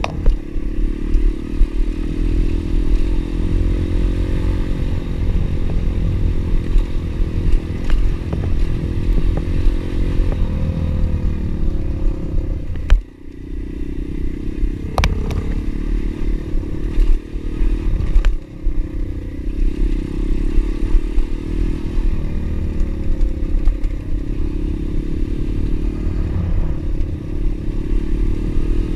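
Pit bike's single-cylinder engine running steadily under way, with a brief drop-off in the sound about thirteen seconds in.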